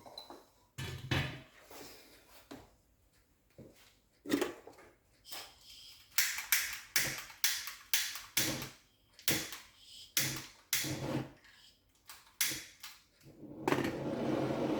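A run of about a dozen sharp knocks and clunks, coming roughly two a second in the middle. Near the end a steady rushing noise sets in and grows louder, likely the heater warming the engine housing to 80–100 °C so the front crankshaft support can be fitted.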